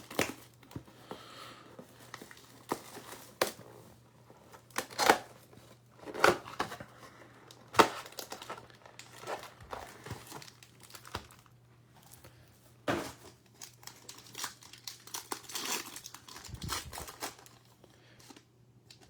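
Plastic wrappers of football trading card packs being torn open and crinkled, with irregular crackling and several sharp rips.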